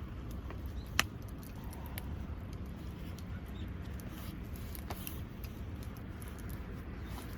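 Wood campfire crackling with scattered small pops, and one loud sharp pop about a second in.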